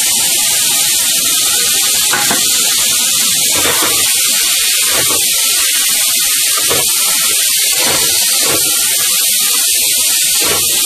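Boiled chickpeas and spice masala sizzling in an aluminium kadai, with a steady hiss. A spatula scrapes and stirs through them roughly once every second or two while the chickpeas are sautéed in the masala.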